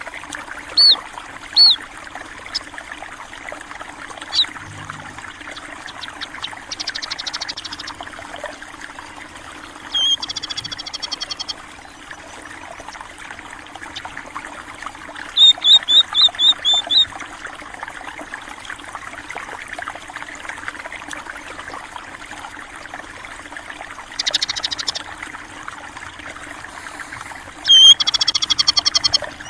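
Small rice-field birds (pipit) chirping. They give short high chirps near the start, then quick buzzy trills and rapid runs of chirps a few times over, the longest near the end. Under them runs the steady trickle of flowing water.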